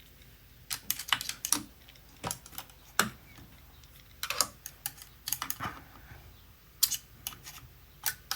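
Irregular light clicks and taps from the mechanism of an opened ELNA DIVA sewing machine as its needle/presser bar is moved by hand, coming in small clusters.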